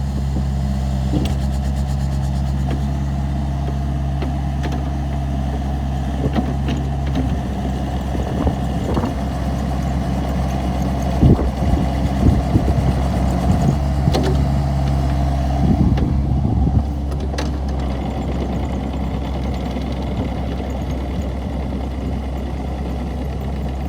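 Volvo ECR50D compact excavator's diesel engine running steadily. A string of sharp knocks and clanks comes through in the middle stretch, and the engine note changes a little after them.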